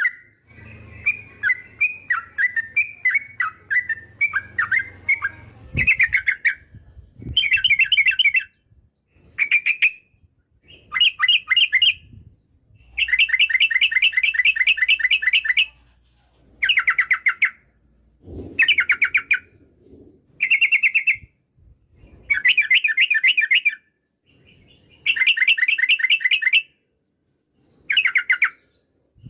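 Yellow-vented bulbul (trucukan) calling: a run of short falling chirps, then about a dozen bursts of fast, chattering trills, some brief and some two to three seconds long, with short pauses between them.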